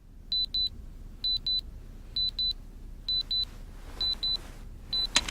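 High-pitched electronic beeps in pairs, about one pair a second, five pairs in all, over a low steady rumble, with a sharp click near the end.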